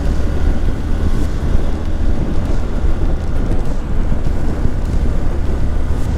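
Motorcycle riding along at speed: steady engine and road rumble with wind buffeting the microphone.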